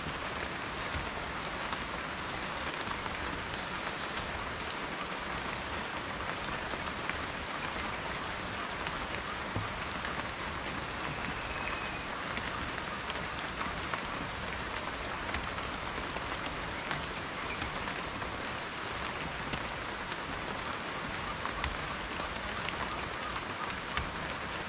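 Steady rain falling, a continuous hiss dotted with many small ticks of individual drops striking a surface.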